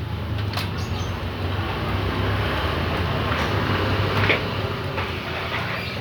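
Steady low hum and noise, with a few short clicks and knocks of engine parts and tools being handled during a motorcycle engine teardown.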